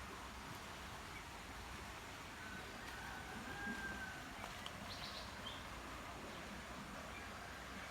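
Quiet outdoor background hiss with a few faint, brief bird chirps about five seconds in. Before them comes a thin, drawn-out whistle-like call.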